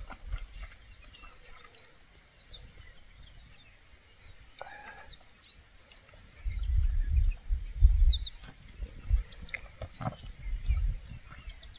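Small birds chirping busily, many quick high chirps a second. From about halfway through, low rumbling bursts come in under them and are the loudest sound.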